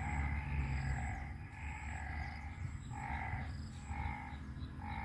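A chorus of frogs calling after heavy rain. The calls overlap at first, then break into separate calls about once a second, over a low rumble.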